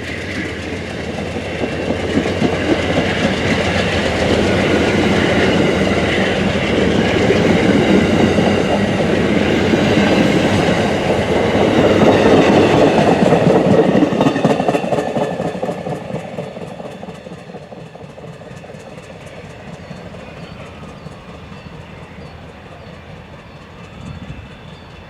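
Amtrak passenger train rolling past, its wheels rumbling and clacking on the rails. It builds to its loudest about halfway through, then fades steadily as the train moves away.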